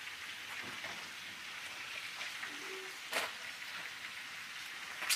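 Steady hiss of crab and shrimp frying in garlic butter on a disco, with a sharp click about three seconds in and another near the end.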